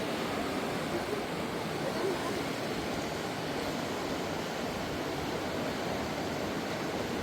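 Fast-flowing mountain river running steadily, an even rushing noise of churning water.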